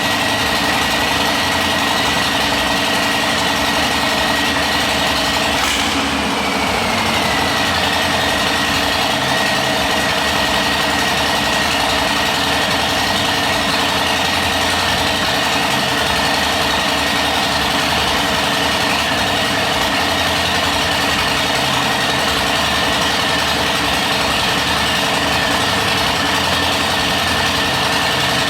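Harley-Davidson Softail's Milwaukee-Eight 107 V-twin engine idling steadily while warming up, with a brief rise in pitch about six seconds in that eases back down.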